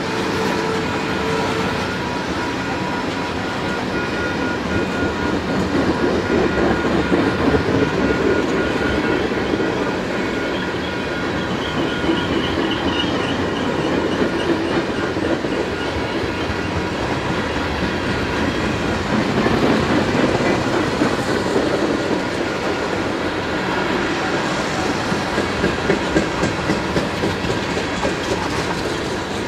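Freight train cars rolling steadily past close by: covered hoppers and tank cars, their steel wheels on the rail giving a continuous rumble with a rhythmic clickety-clack that swells and eases as the cars go by.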